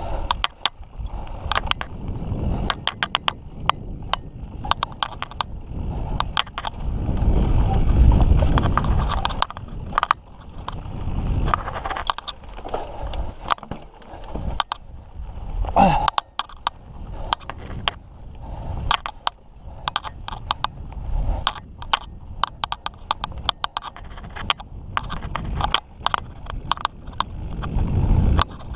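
Mountain bike clattering over a rough, rocky trail: a rapid, irregular run of sharp knocks and rattles from the bike, over a low rumble of wind on the microphone that swells about eight seconds in and again near the end.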